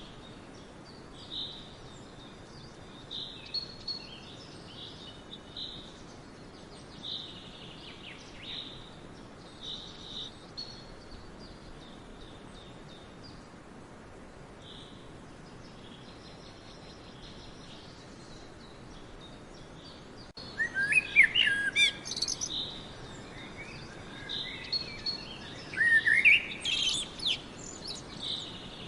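Wild birds singing: short high chirps every second or two, then from about twenty seconds in a louder, quicker song of rapid rising and falling notes, heard twice. A faint steady hiss lies underneath.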